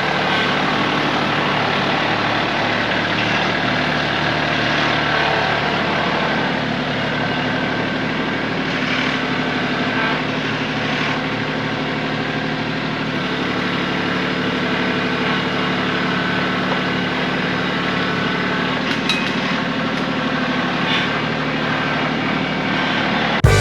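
Diesel tractor engine running steadily, its speed shifting slightly a couple of times, with a few light clicks near the end.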